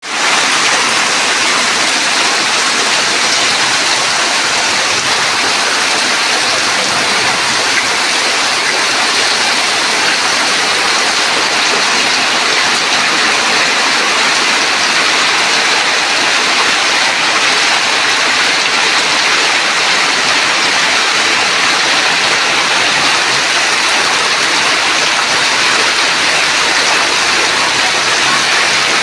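Heavy rain falling steadily in a downpour, making a dense, even hiss.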